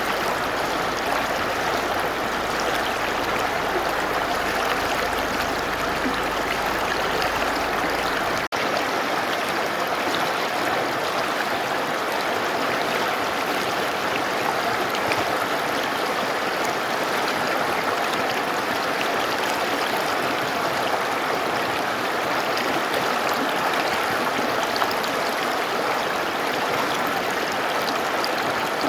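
Mountain river rushing and splashing over rocks, a steady even flow, with a split-second dropout about eight seconds in.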